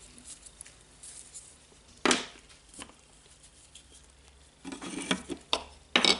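Small grinder housing parts and components being handled and set down on a workbench: a sharp knock about two seconds in, then a cluster of clicks and rattles near the end.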